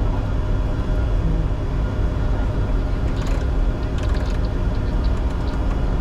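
Steady cockpit noise of a Bombardier Challenger 605 climbing after take-off: a constant rush of airflow and a deep rumble, with a steady hum of tones running through it. A few light clicks come about three to four seconds in.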